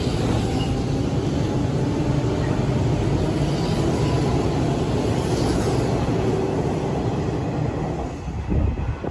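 Hanshin Railway electric train running, a steady rumble of wheels on rails that drops away near the end.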